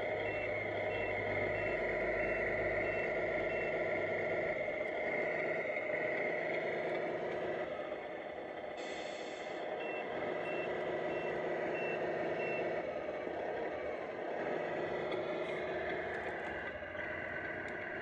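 Engine sound of a radio-controlled Tamiya Freightliner Cascadia Evo semi truck running steadily. Twice there is a run of about six evenly spaced reversing beeps, once at the start and again about ten seconds in, and a short air hiss just before the second run.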